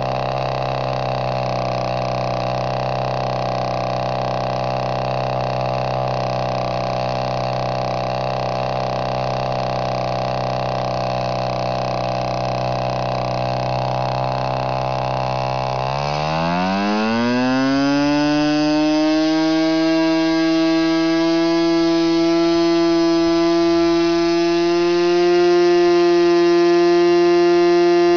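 Norvel .061 model two-stroke engine converted to diesel running with a propeller, first at a steady lower speed, then revving up sharply about halfway through to a high, steady screaming pitch that gets a little louder near the end.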